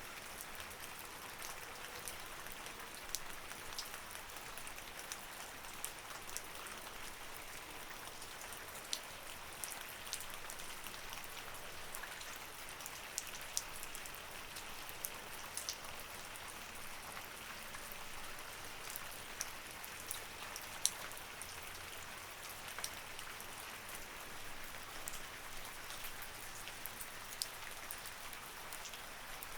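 Steady rain falling, with separate drops striking close by as sharp irregular ticks over an even hiss.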